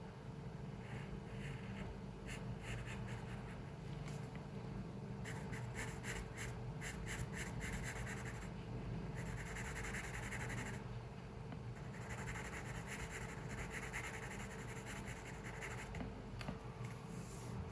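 Pencil scratching on paper in runs of strokes: a cluster of quick short strokes, then longer unbroken scratching strokes, over a steady low hum.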